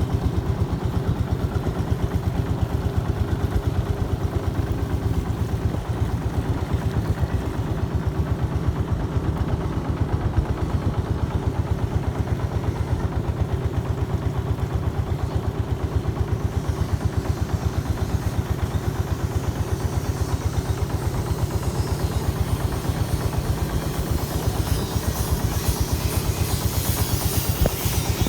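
Boat engine running steadily, with a fast, even beat of firing pulses. A hiss of rushing water and wind builds up in the second half.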